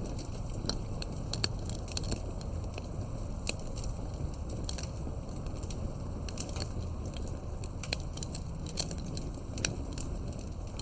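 Campfire crackling: irregular sharp pops and snaps, several a second and some louder than others, over a steady low rumble of burning.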